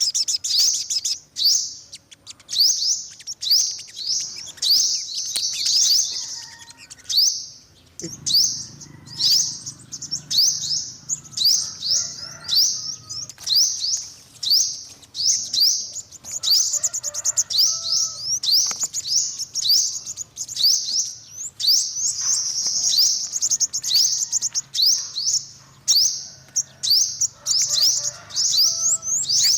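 Yellow-bellied sunbird singing: fast runs of short, high, sharply falling chirps, repeated in quick series with brief gaps between phrases. A faint low hum comes in underneath about a third of the way through.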